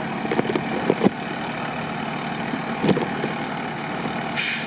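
Steady drone of a vehicle engine idling, with a few sharp knocks in the first second and again near three seconds, and a short hiss just before the end.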